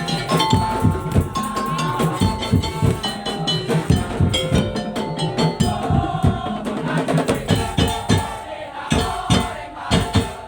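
Madurese tong-tong (daul) percussion ensemble playing: a dense, driving beat of drums with cowbell-like and wood-block knocks, under a held, wavering melody line. The beat thins and drops in level for a moment near the end, then comes back in.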